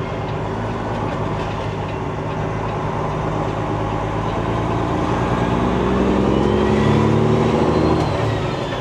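Semi truck's diesel engine pulling at low speed through a wide turn, its pitch climbing gently in the second half as it picks up revs, with a faint whistle rising alongside.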